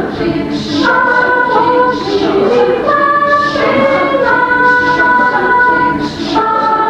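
A choir singing in several voice parts, slow held chords that change about once a second.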